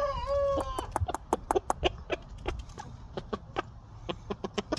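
A rooster's crow ending on a long held note within the first second, followed by a run of short, sharp clicks and clucks.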